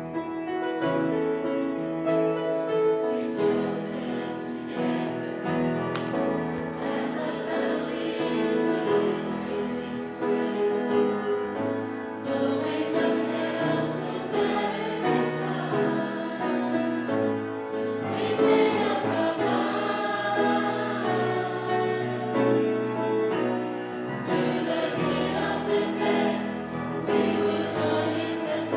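A youth choir singing a gospel song, several voices together in harmony, continuous throughout.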